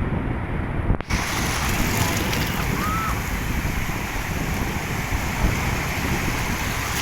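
Wind buffeting the microphone over a steady rush of water. There is a brief dropout about a second in, after which the sound is brighter.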